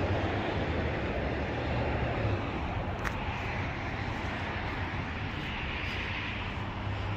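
Steady rush of passing road traffic, rising and falling slowly, with a low engine hum under it.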